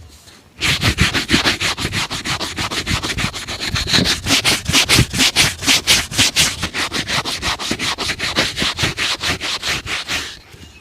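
Leather shoe being buffed in fast, even back-and-forth strokes, about five a second; it starts just after the beginning and stops shortly before the end.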